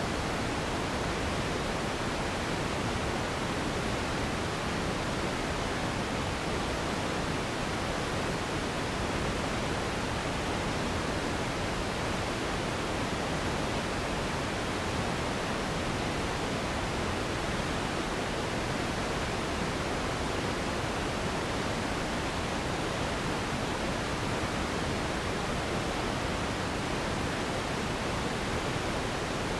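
Steady relaxation noise for sleep: an even, unchanging hiss with no rhythm, tones or breaks.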